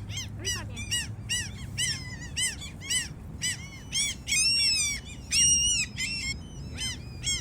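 Gulls calling: a quick run of short, sharp calls, several a second, with two longer drawn-out calls about four and a half and five and a half seconds in, as a gull calls others to food.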